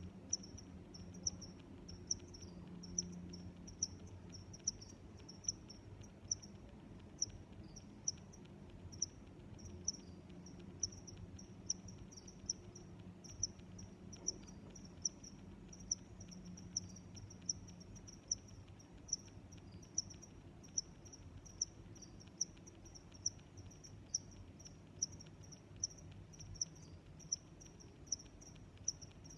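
Crickets chirping in a steady rhythm: a short, high chirp a little more than once a second, with fainter chirps between, over a faint low hum.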